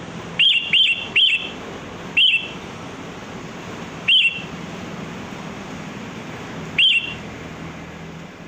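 Sooty-headed bulbul giving six short, sharp calls: three in quick succession, then three more spaced a couple of seconds apart, over a steady background hiss.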